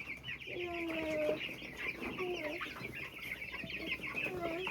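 A flock of baby chicks cheeping: a steady stream of many short, high peeps overlapping one another, with a few lower, drawn-out calls among them.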